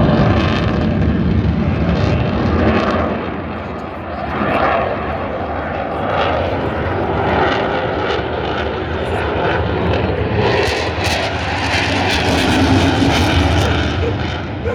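RAF Eurofighter Typhoon's twin EJ200 turbofans: loud, continuous jet noise as the fighter manoeuvres in its display. It dips briefly about four seconds in, then swells again, with a crackling edge in the second half.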